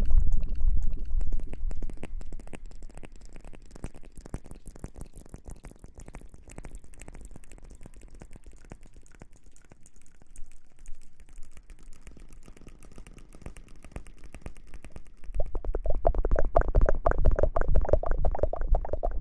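Close-miked ASMR hair-washing sounds: dense wet crackling and squishing, quieter through the middle and swelling louder near the end.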